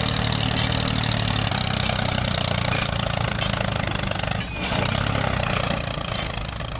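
Engine running steadily, with a brief dip about four and a half seconds in.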